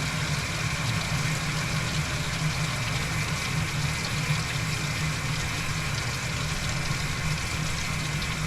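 A Toyota Tacoma's engine idling steadily while flushing water pours out of the disconnected radiator hose during a cooling-system flush; the water is now running clear rather than full of gunk.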